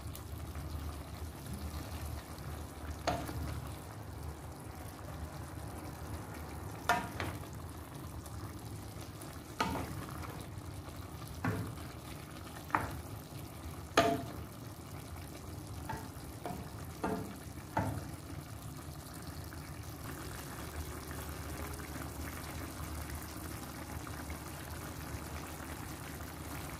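Chicken pieces, sliced peppers and onions frying in a thin sauce in a stainless steel pot, with a steady sizzle. A wooden spoon stirs and knocks sharply against the pot about ten times, mostly in the middle stretch.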